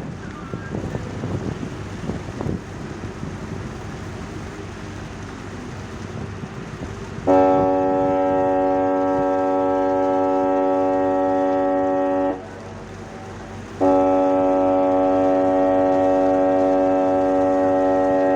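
A ship's horn sounds two long, steady blasts of about five seconds each, about a second and a half apart, as the ship comes in to berth. Before the first blast there is only wind and a low rumble.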